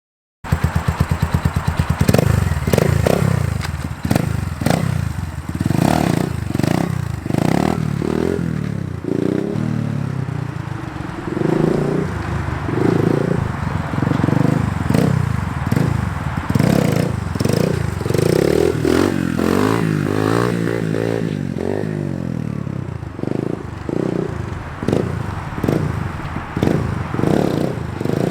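Small dirt bike engine being ridden hard, revving up and falling back again and again, with scraping and clattering along the way. It starts abruptly about half a second in.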